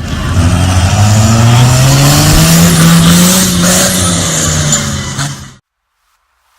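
A loud engine revving up, its pitch rising steadily for about two and a half seconds and then easing off slightly, before the sound cuts off suddenly about five and a half seconds in.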